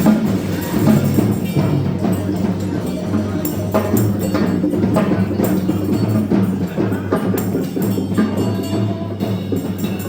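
Percussion music: a dense run of quick struck knocks and clicks over lower held pitched notes.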